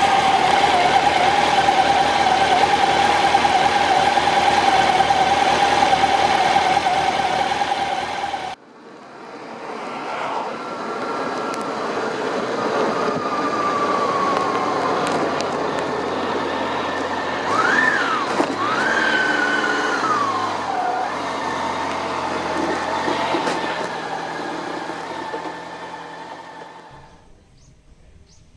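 Honda CB750 (RC42) air-cooled inline-four idling steadily with an even tone. After an abrupt cut, the same motorcycle is heard on the move, its engine pitch rising and falling a few times before the sound fades out near the end.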